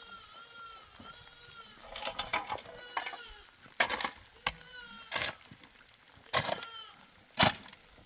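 Goat bleating: high, quavering cries at the start and again a couple of seconds in, with several sharp knocks in between.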